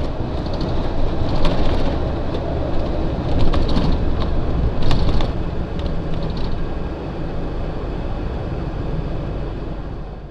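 Rumbling road and engine noise of a moving vehicle, picked up by a dashcam, with a few sharp knocks about a second and a half, three and a half, and five seconds in.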